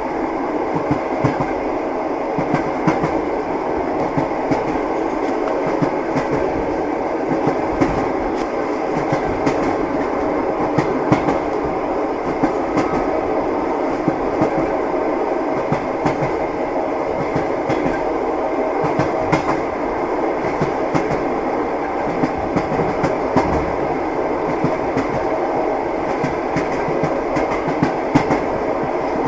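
Passenger train running, heard from inside a compartment: a steady rolling rumble with wheels clacking over the rail joints.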